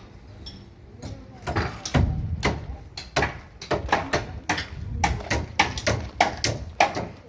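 Irregular hammer blows, about two or three sharp strikes a second, with voices in the background.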